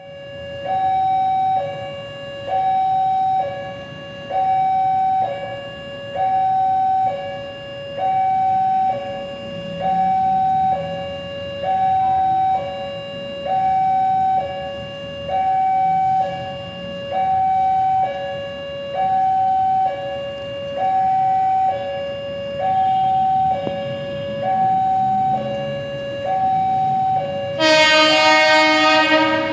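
Level crossing warning alarm sounding an electronic two-tone, high then low, about one tone a second. Near the end a locomotive horn sounds loudly over it.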